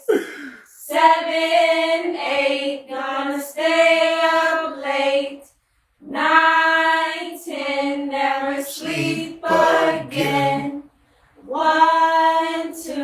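High, child-like voices singing a slow nursery-rhyme tune together, phrase by phrase with short pauses between; a lower voice joins briefly a little past the middle.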